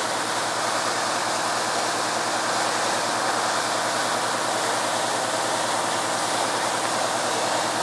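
Water gushing in a steady, unbroken rush from a fire hydrant broken open when a car crashed into it.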